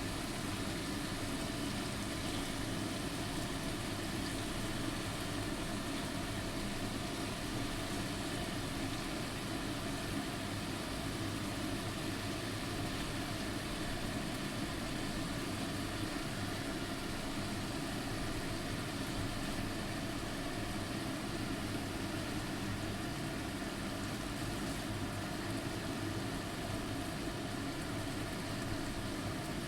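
Steady, unchanging hum and hiss, as of a fan or small motor running.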